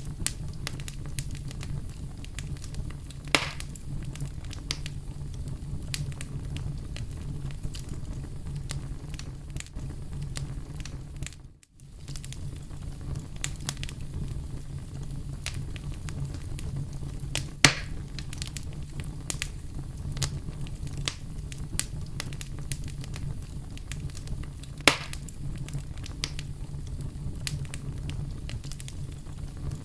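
Wood fire crackling in a fireplace: a steady low rumble with a dense run of small crackles and three louder pops spread through it. The sound cuts out for a moment a little before halfway.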